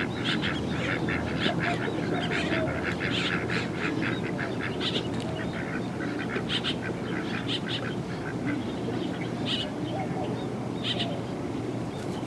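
Waterfowl calling: a quick run of short calls for the first few seconds, then scattered single calls.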